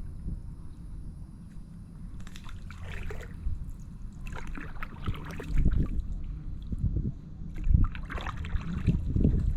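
Kayak paddle strokes: the blade dipping and splashing in the water three times, a few seconds apart, over a steady low rumble with a few low thumps.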